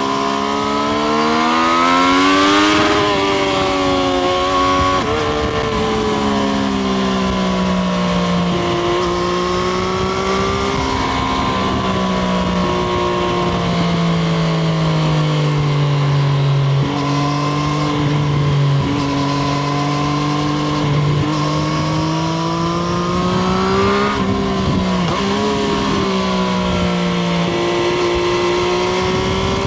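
Triumph Street Triple RS's 765 cc inline three-cylinder engine pulling under load, its revs climbing and falling with several quick gear changes along the way.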